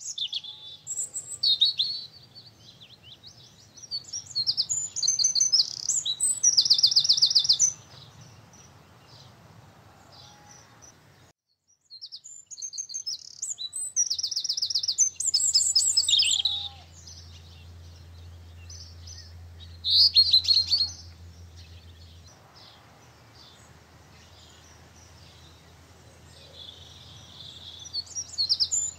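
Garden birds singing: repeated bursts of high chirps and fast trills. The sound cuts out completely for a moment partway through.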